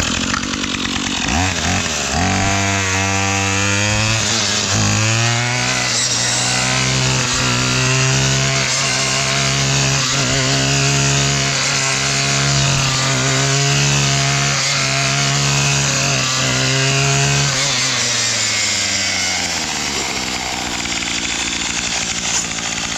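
Gas brush cutter fitted with a chainsaw-tooth blade, throttled up about a second and a half in and held at high revs while cutting brush, its engine note wavering as the blade takes load. It drops back toward idle near the end.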